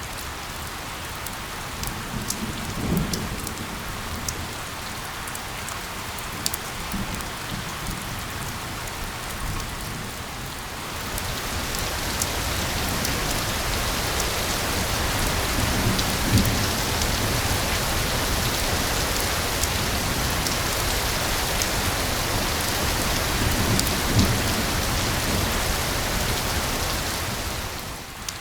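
Steady rain falling, with scattered sharp drop ticks; it gets louder about eleven seconds in, and a few brief low rumbles come through underneath.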